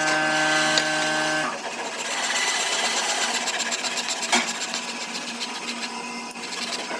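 A woodworking power tool's motor running with a steady hum, shutting off about a second and a half in, followed by a rough rubbing, filing-like sound of a tool working on wood.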